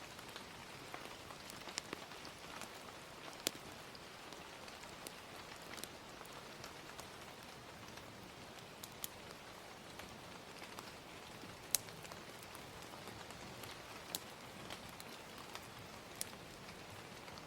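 Steady hiss of gentle rain with scattered sharp pops and crackles of a wood fire, the loudest pop about twelve seconds in.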